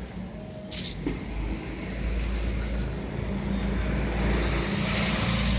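A motor vehicle's engine running, growing louder over the second half.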